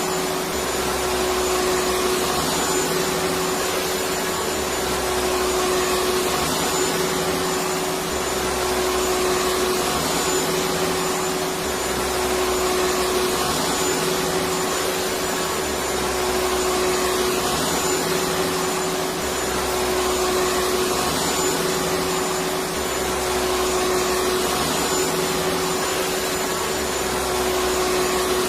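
Electric vacuum cleaner running steadily: a constant rushing hum with a steady mid-pitched whine, swelling slightly every few seconds.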